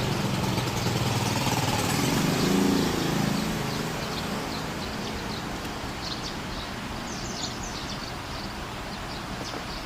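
A motor engine hums, swells to its loudest about three seconds in, then fades away, as a vehicle passing by would. Short, high bird chirps go on throughout.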